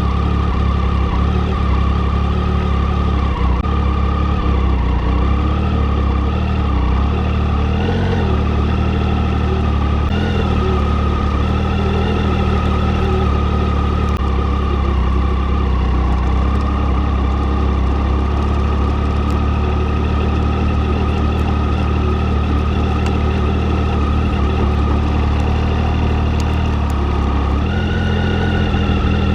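Triumph Tiger 800's three-cylinder engine running steadily, its note stepping up briefly near the end.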